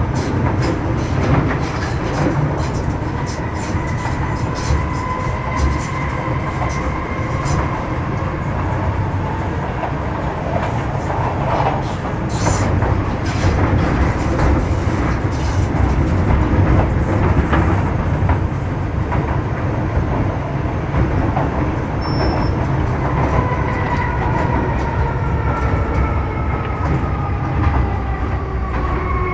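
Running sound inside a Metro Cammell M-Train EMU with GEC GTO chopper traction: a steady wheel-and-rail rumble with many clicks over the track. Thin traction whines sound through it, one falling slowly a few seconds in and another set falling toward the end.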